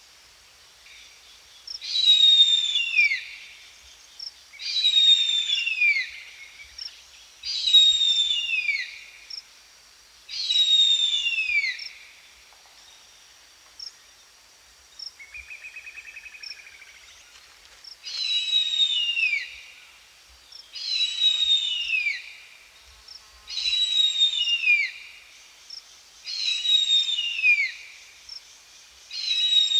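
Harpy eagle calling: a run of shrill, high wailing calls, each about a second long with slurred falling notes, repeated roughly every three seconds. The calls pause around the middle, where one short, softer trilled note is heard.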